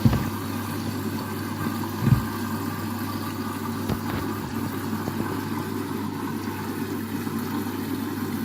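Washing machine running early in its wash cycle, overloaded with detergent powder: a steady low motor hum with dull thumps at the start and about two seconds in.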